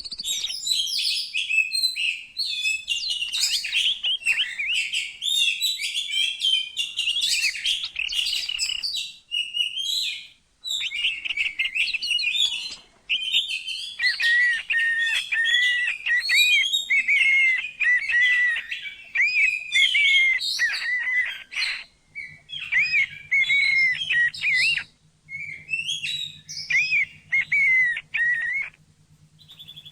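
Small songbirds singing in fast, high-pitched twittering and chattering phrases, a mix of varied notes with a few short pauses. A faint low hum sits under the song in the second half.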